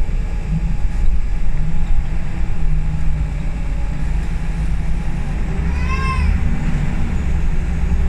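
Scania L94UB bus's diesel engine running under way, heard from inside the bus as a steady deep rumble that swells about six seconds in. A brief high-pitched squeal rises and falls at the same moment.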